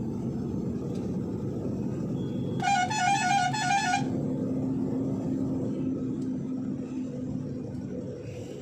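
A truck's newly bought musical horn plays a short warbling tune of quickly alternating notes for about a second and a half, over the steady drone of the running truck engine.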